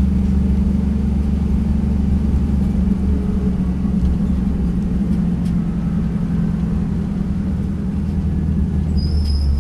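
V8 race car engine running steadily at low revs with a deep, even rumble, its pitch sagging slightly midway as the car rolls slowly. A thin high tone comes in near the end.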